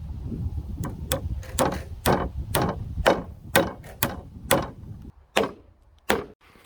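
Hammer blows on timber: about a dozen sharp strikes, roughly two a second, the last two slower and more spaced, over a low rumble that stops about five seconds in.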